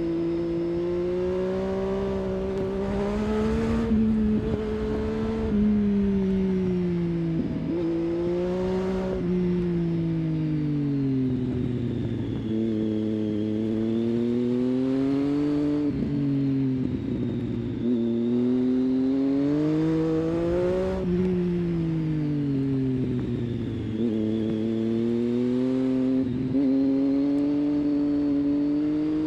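Triumph Street Triple 675's inline three-cylinder engine through an aftermarket exhaust, running under load. Its note climbs as the throttle opens and falls away again, over and over, and several times drops sharply.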